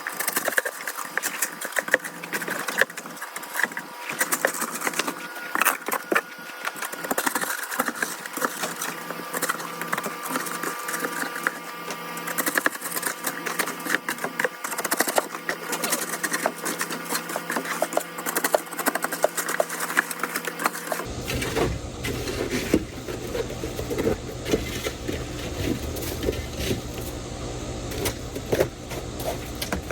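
Metal shovel scraping and chipping sleet and ice off steps, a quick run of rough scrapes and knocks. About two-thirds through the sound turns lower and duller, with fewer sharp scrapes.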